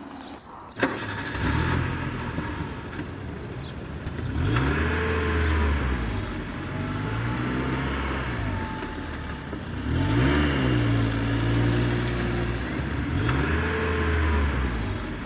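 A sharp click just under a second in, then an engine running that rises and falls in pitch in repeated waves, as if revving up and easing off.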